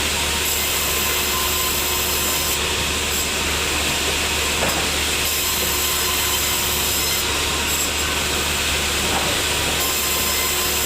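Sawmill saw cutting through a teak log: a steady, unbroken sawing noise over the low hum of the machine.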